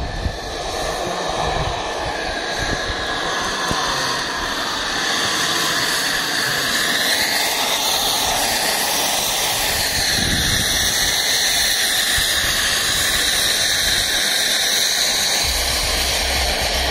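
Miniature gas-turbine engine of a J10 model jet running, a steady jet whoosh whose tone slowly sweeps up and down.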